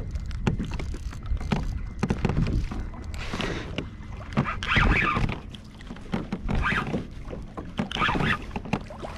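Water splashing and knocking against a kayak hull, with irregular clicks and knocks and a steady low rumble of wind on the microphone, while a hooked fish is being fought on rod and reel.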